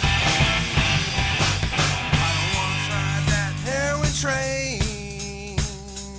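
Rock music with a drum kit. The drumming thins out about halfway through, and sliding, held notes take over.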